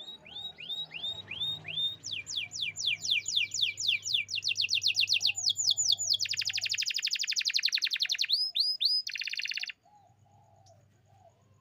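Canary singing: phrases of repeated falling whistled notes, each phrase faster than the one before, building into a very fast trill and ending in a short buzzy trill that stops abruptly near the end.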